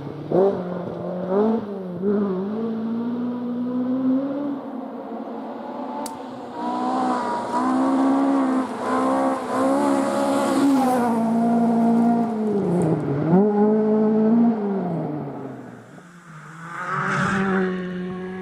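Rally car engine being driven hard, its revs rising and falling repeatedly with gear changes and throttle lifts. The note drops away briefly near the end, then climbs again.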